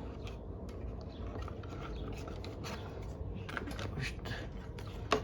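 Light clicks and rubbing of small metal and plastic parts being handled and slid into place as a carburetor, gasket and air filter cover are fitted onto a lawn mower engine's mounting bolts, with one sharper click near the end.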